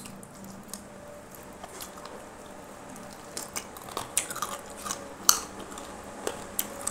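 A person chewing chicken close to the microphone: wet mouth and lip-smacking sounds, with short sharp clicks that come more often from about halfway through.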